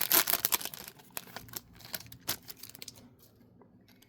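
Trading cards and their plastic pack wrapper being handled: rustling and crinkling with light clicks. It is dense in the first second, thins to scattered clicks, and dies away about three seconds in.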